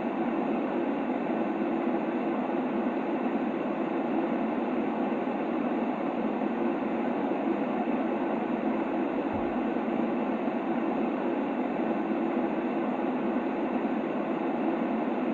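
Sleep white noise for a baby: a steady, deep hiss that never changes, with no rhythm or breaks.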